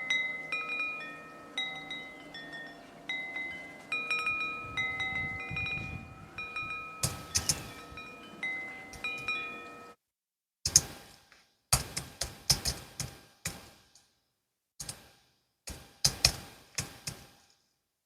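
Wind chimes ring with many overlapping tones for about ten seconds, then cut off suddenly. After that a Logitech MX Keys S keyboard is typed on in slow, irregular keystrokes with short silences between them.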